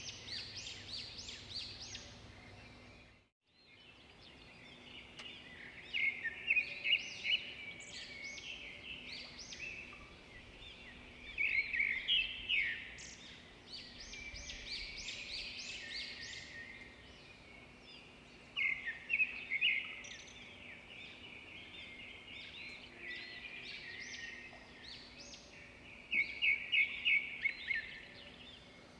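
Swiftlets twittering: rapid high chirps that swell into louder bursts of a second or two, about six, twelve, nineteen and twenty-six seconds in, over a faint steady hum. The sound drops out completely for a moment about three seconds in.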